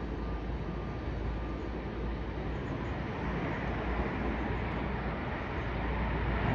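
Jet aircraft noise: a steady rumble with no clear tone that grows slightly louder toward the end.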